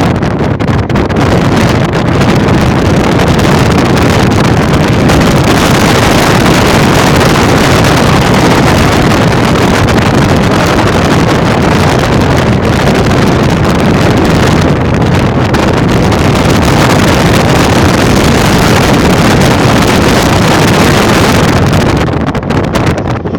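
Loud, steady rushing noise with no clear tones, easing off slightly near the end.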